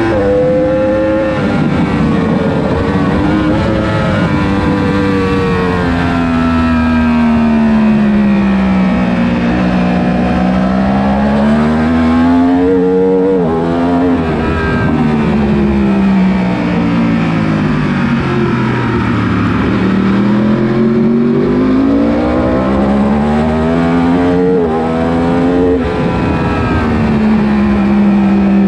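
Several 1000 cc superbike engines at racing speed, their pitch swinging up and down continuously as the bikes accelerate, change gear and brake, with more than one bike heard at once.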